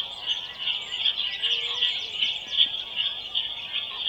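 Recorded birdsong played back through a small device's speaker: many quick, high chirps over a steady high-pitched whine, with a brief low tone about a second and a half in.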